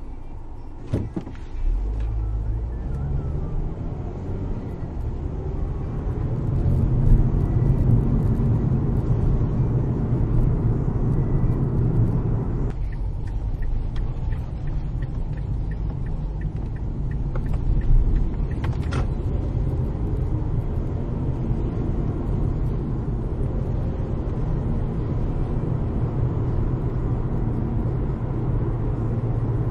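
Car engine and road noise while driving: a steady low rumble that picks up about two seconds in and holds, with a few faint clicks.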